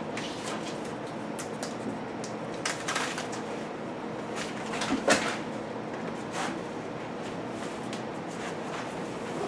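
Scattered knocks, clicks and rustles from unpacking and handling a new refrigerator-freezer, with one sharp knock about halfway through.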